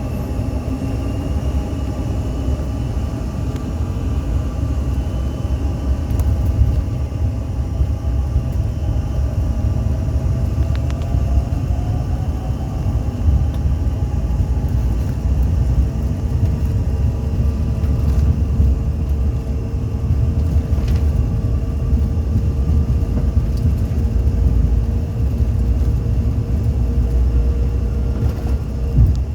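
Aircraft takeoff: a loud, steady rumble of engines and rolling, with thin whining tones that rise in pitch near the start and again about ten seconds in, then hold steady.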